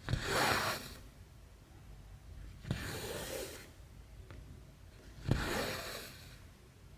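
Embroidery floss drawn through 11-count cross-stitch cloth: three rasping pulls about two and a half seconds apart, each starting with a short click.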